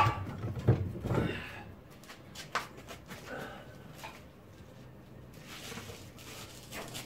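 Scattered clicks and knocks of car suspension parts and tools being handled, busiest in the first second and a half, then a few separate sharp clicks.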